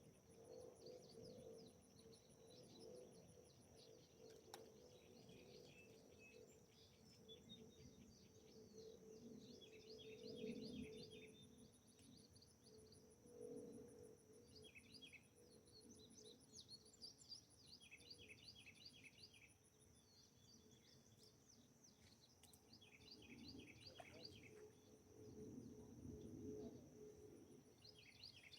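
Faint outdoor ambience: small birds chirping in short repeated trills every few seconds over a steady high drone and pulsing trill of insects.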